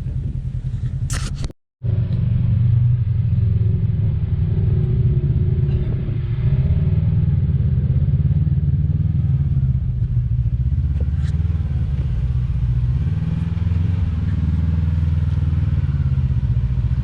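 Engine of an off-road side-by-side UTV running steadily under way, a dense low rumble that holds at a fairly even pitch and level. It starts after a brief cut to silence about a second and a half in.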